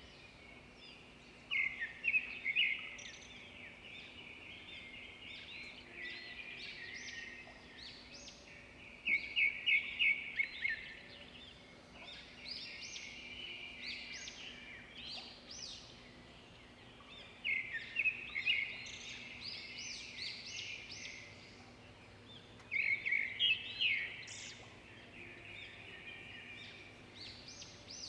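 Swiftlet calls: a steady high twittering chatter, broken by louder bursts of rapid chirps four times, several seconds apart.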